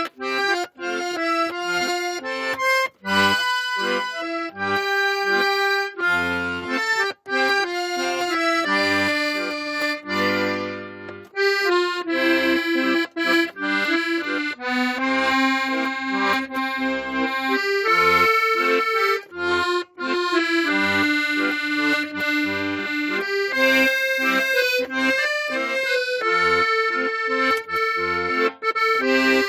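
Solo accordion playing a slow song melody over bass notes and chords, phrase after phrase, with brief gaps where the notes break off.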